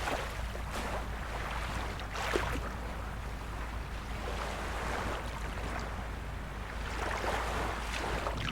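Small waves of a calm sea washing in, in soft rushes every second or two, over a steady low rumble.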